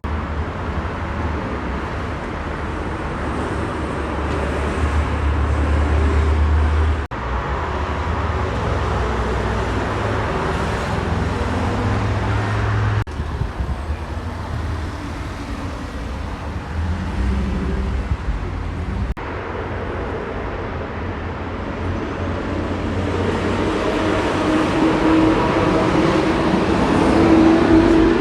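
Road traffic with heavy vehicles passing: a steady low engine rumble and tyre noise that breaks off abruptly several times. Near the end an engine note rises in pitch as a vehicle accelerates.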